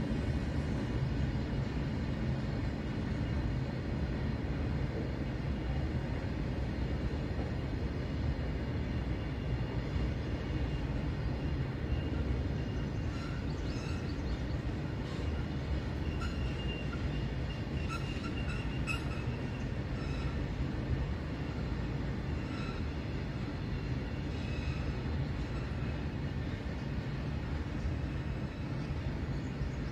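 Loaded freight train of open wagons rolling past, its wheels on the rails making a steady low rumble. Brief high squeals come and go in the middle.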